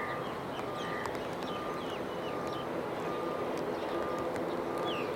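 Steady jet engine noise from a Boeing 777-300ER's GE90 engines at a distance, with a short high beep repeating about once every second and small birds chirping.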